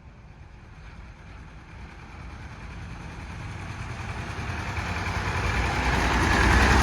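A David Brown 900 tractor's engine approaching, its rumble growing steadily louder until it draws level near the end.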